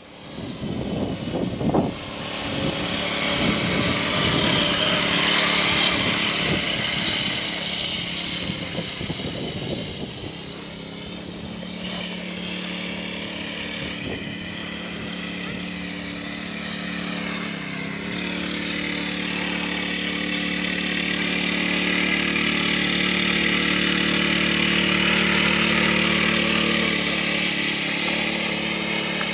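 A vehicle engine running under way, uneven for the first ten seconds or so, then settling into a steady drone with a rushing noise over it.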